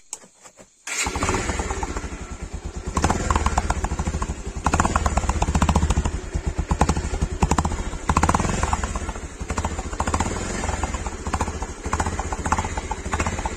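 Bajaj Pulsar 150's single-cylinder engine running through an aftermarket exhaust, with a rapid pulsing exhaust note. It comes in about a second in and swells louder several times as the throttle is blipped.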